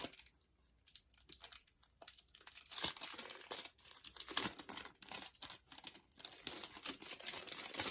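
Packaging being handled and torn open: a few light clicks and rustles, then continuous crinkling and tearing from about two seconds in.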